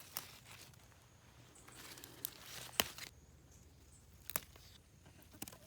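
Faint rustling of garden plants being handled, with a handful of short, sharp clicks and snaps; the loudest come a little before halfway and about three-quarters of the way through.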